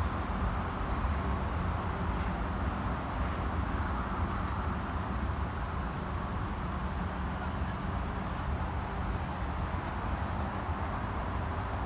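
Steady low vehicle rumble with a constant noisy wash, unchanging in level throughout.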